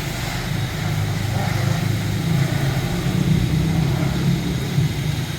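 Steady low machine hum with an even hiss above it.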